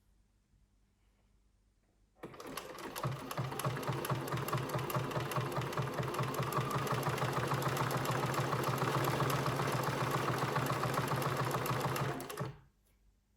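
Bernina 1230 sewing machine starting up about two seconds in, quickly coming up to speed and running fast and steady with a rapid, even rhythm of strokes for about ten seconds, then stopping.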